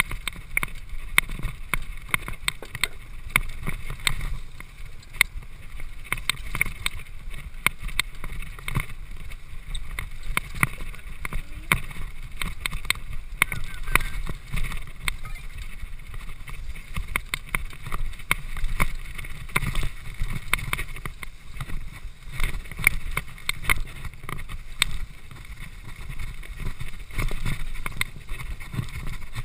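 Riding across a railroad trestle: wind rushing on the microphone over a low rumble, with frequent irregular knocks and rattles as the wheels jolt over the trestle.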